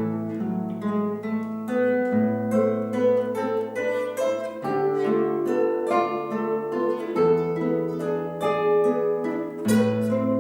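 Instrumental duet: a plucked string instrument picks out a quick melody over low bass notes, each held for a couple of seconds before changing.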